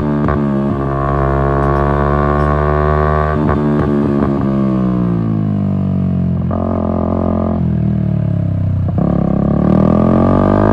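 Yamaha MT-125's single-cylinder engine running through an Akrapovic exhaust. The revs fall steadily for several seconds, shift about past the middle, then climb again near the end.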